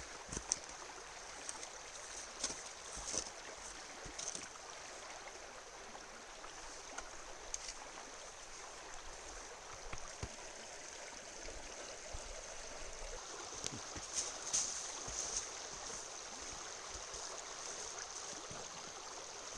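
Steady rush of river water, with scattered small knocks and clicks over it.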